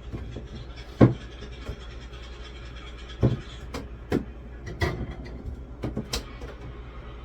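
Household objects being handled and set down: about half a dozen irregular clunks and knocks, the loudest about a second in, over a steady low hum.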